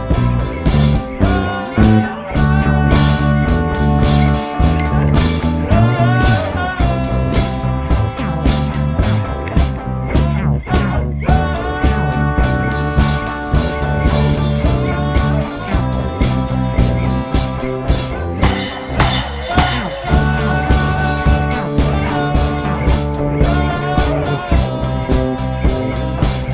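A band jamming: guitar playing over a steady drum-kit beat and low bass, in a loose bluesy rock groove, with some notes bent.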